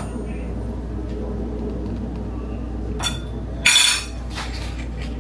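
Kitchenware clinking, with a short, loud clatter a little under four seconds in and a few lighter clicks, over a steady low hum.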